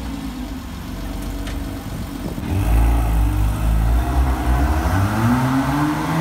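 Porsche Cayman's flat-six engine running at a low, steady speed, then revving up as the car accelerates away, its pitch climbing through the last couple of seconds.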